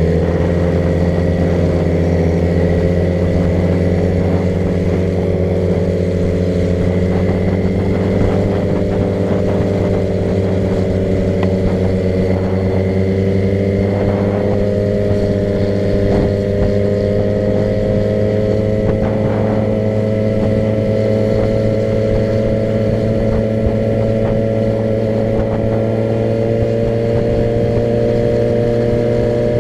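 Car engine running at a steady cruise with road rumble, its pitch creeping slowly up as the car gathers a little speed.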